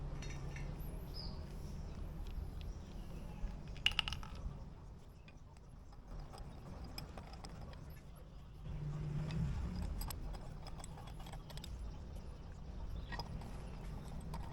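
Metal clinks and light ticks of hand tools and brake parts being handled: a sharp clink about four seconds in, then scattered lighter ticks, over a low steady hum.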